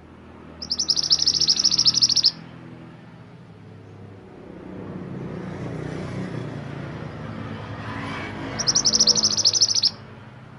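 Mantenan gunung songbird singing two fast, high trills about six seconds apart, each lasting about a second and a half. A low rumble of background noise swells and fades between them.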